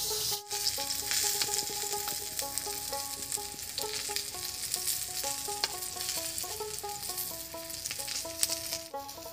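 Eggplant slices frying in vegetable oil in a kadai: a steady sizzle with many small crackles. A light melody of background music plays under it.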